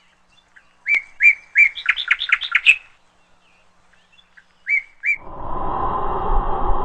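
A small bird chirping: a few sharp chirps that speed up into a quick run of notes, a pause, then two more chirps. About five seconds in, a steady rushing noise with a hum starts and keeps going.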